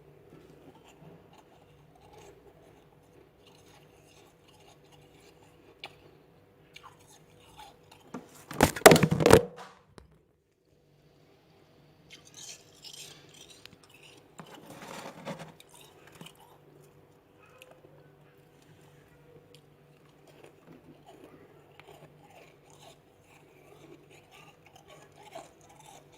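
Freezer frost being chewed and crunched in the mouth: faint, scattered crunches, with one loud burst of crunching about nine seconds in and another louder stretch a few seconds later. A faint steady hum runs underneath.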